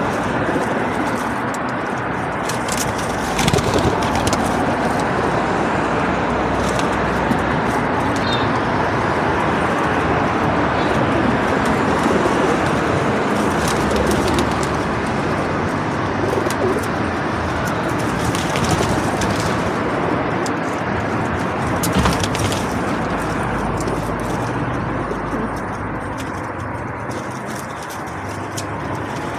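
Feral pigeons cooing steadily, with a few sharp taps scattered through.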